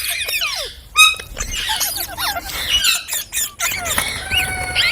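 Green parrot chirping: a quick run of short, squeaky chirps and whistles that slide up and down in pitch, mixed with a few sharp clicks.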